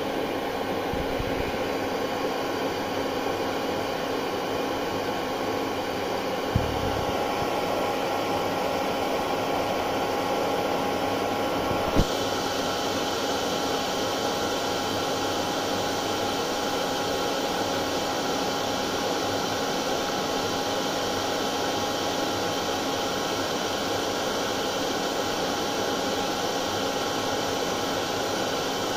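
Hair dryer running steadily: an even blowing hiss with a steady motor whine. A brief low thump about six and a half seconds in and a sharp click about twelve seconds in.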